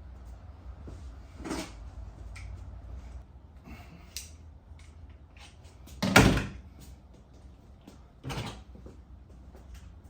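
Thumps and knocks of a foam insulation panel being pushed into a garage door section for a tight fit: three separate knocks, the loudest about six seconds in, over a low steady hum.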